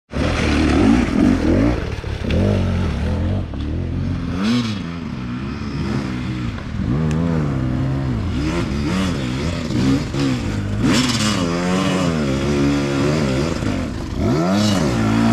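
Enduro dirt bike engine revving up and down over and over, its pitch rising and falling every second or two, with a few short bursts of noise.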